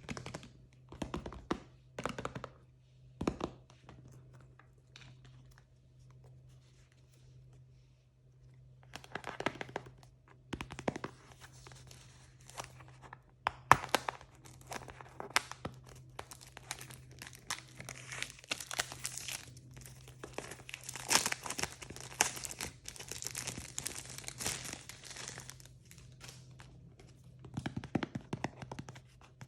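Plastic blind-bag packaging being handled and torn open: a few sharp crinkles, a lull of several seconds, then a long stretch of dense crinkling and tearing.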